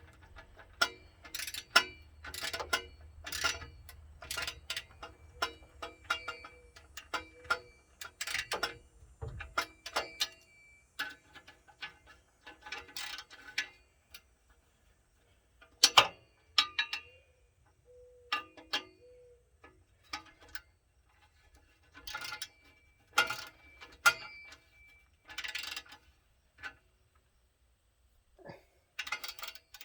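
Hand ratchet wrench clicking in short, quick runs as bolts are turned, with pauses between strokes.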